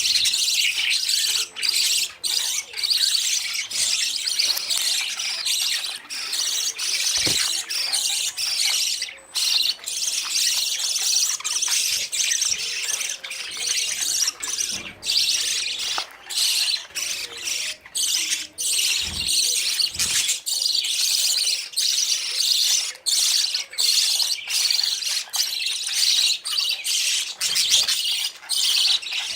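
Budgerigars chattering and squawking continuously, a dense, high-pitched flock chatter that includes the begging calls of fledgling budgies chasing their parents for food.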